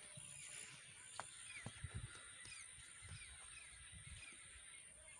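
Faint outdoor ambience with a bird giving a run of short, falling chirps, about two a second, for a couple of seconds.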